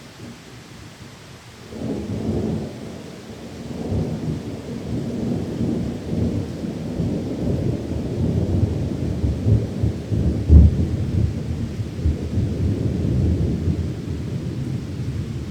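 Rolling thunder over steady rain: a low rumble breaks in about two seconds in and keeps rolling, with one sharp loud clap about two-thirds of the way through.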